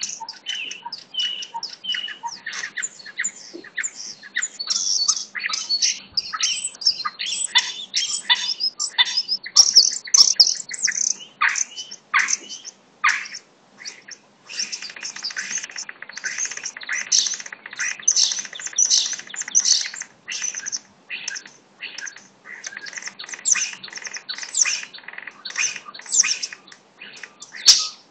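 Birds chirping and singing in a busy, unbroken chorus of short, high calls that overlap one another.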